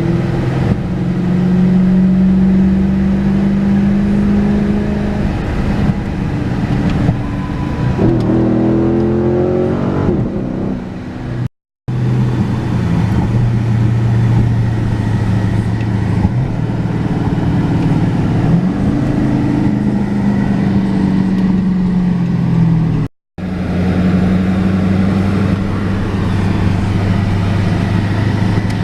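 Car engine running with a steady drone, its pitch rising and falling a couple of times as it revs. The sound breaks off abruptly twice.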